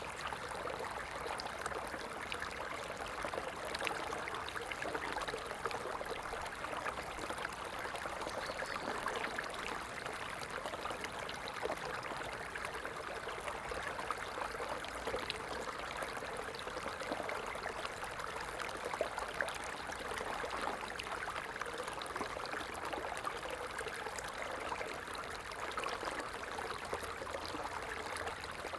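Stream water flowing and trickling, a steady, even rush dotted with many small splashes.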